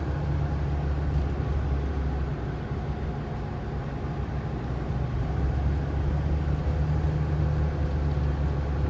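Ford F-450 wrecker's V10 gasoline engine running steadily under way, with road noise from the truck. The low hum eases slightly midway and comes back up about five seconds in.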